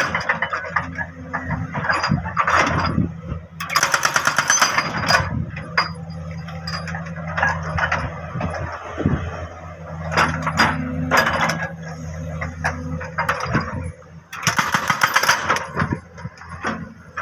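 Jackhammer hammering into hard rock in two bursts of rapid blows, each about a second and a half long: one about four seconds in and one near the end. A steady engine hum runs underneath, with scattered knocks and scrapes between the bursts.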